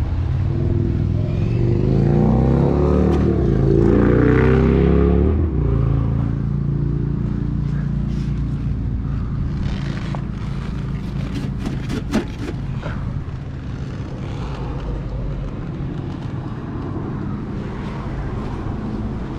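Motor vehicle engine rising in pitch for several seconds, then dropping about five and a half seconds in and running on steadily with road noise.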